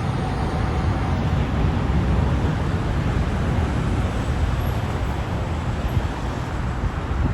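Boeing 777-300ER's GE90-115B jet engines at takeoff power, a steady deep rumble with a hissing wash above it, easing slightly toward the end.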